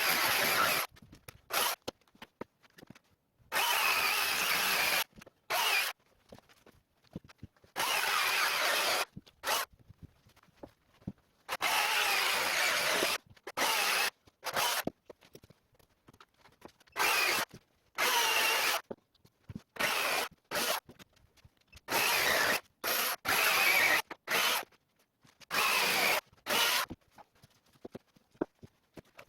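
Greenworks cordless electric chainsaw cutting firewood logs in short bursts: the chain runs for about one to one and a half seconds at a time, with near-quiet pauses between, and each burst cuts off sharply.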